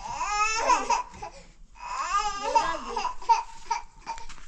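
A young child's high-pitched voice babbling and squealing in two long wavering stretches, then a few short sounds.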